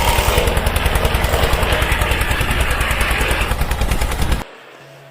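An engine running with a fast, even putter, cutting off abruptly about four and a half seconds in.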